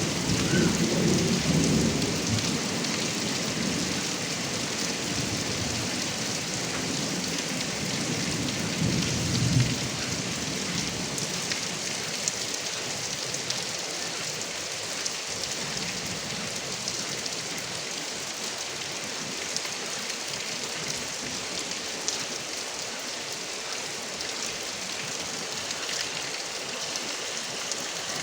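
Heavy rain falling at a roof gutter spout, a steady hiss, with low thunder rumbling in the first couple of seconds and again about nine seconds in.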